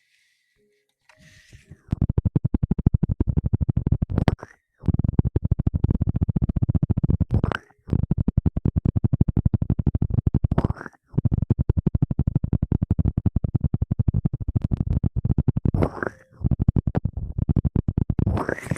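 Fast, rhythmic scratching close on the microphone. It comes in five runs with short pauses between them and sounds loud and deep.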